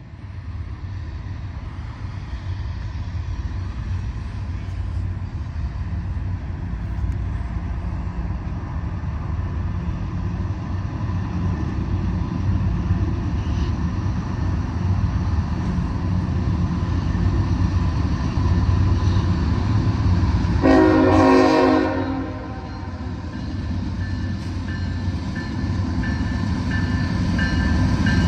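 Diesel freight train approaching, its low engine rumble building steadily louder. About three-quarters of the way through the locomotive's air horn sounds once, briefly.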